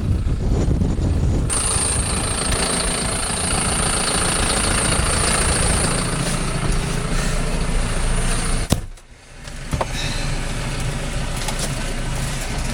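A motor vehicle's engine running steadily, with a thin high whine over it. The sound cuts out suddenly for about a second two-thirds of the way through, then comes back.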